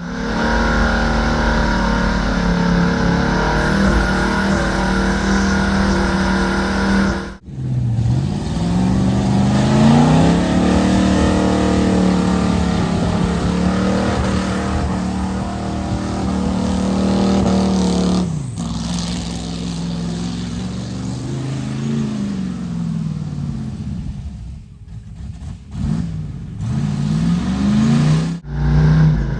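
Old Ford mud truck's engine running loud and revving, its pitch rising and falling again and again as it is driven through mud. The sound breaks off sharply a few times, then picks up again.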